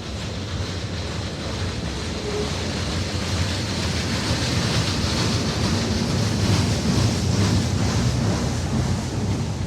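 A train running past on the line with wind buffeting the microphone: a steady rushing rumble that grows a little louder partway through.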